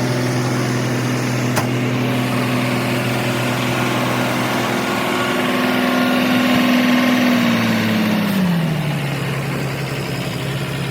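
An engine running steadily at a raised speed, then its revs drop to a lower steady note about eight seconds in. A single sharp click sounds near the start.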